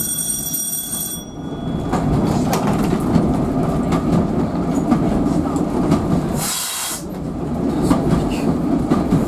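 Auto coach running along the line, heard from its driving cab: a steady rumble of wheels on rail with scattered clicks from the rail joints. In the first second there is a brief high wheel squeal on the curve, and about two-thirds of the way through a short hiss.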